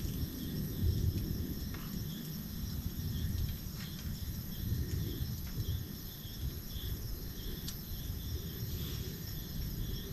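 Forest insect chorus: crickets chirping in a steady pulsing trill over a constant high-pitched drone, with a low rumbling noise underneath and a few faint clicks.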